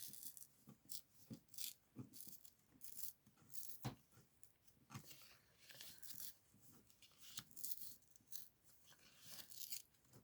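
Paper being torn by hand in a series of short, faint rips, tearing the edge of a strip of card to give it a rough, rustic edge, with a small knock about four seconds in.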